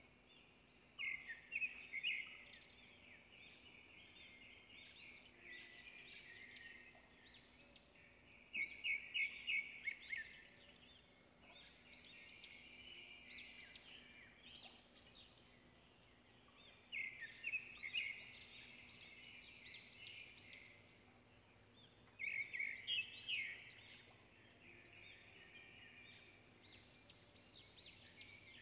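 Faint bird chirping: short bouts of rapid, high chirps, each a couple of seconds long, repeating every few seconds.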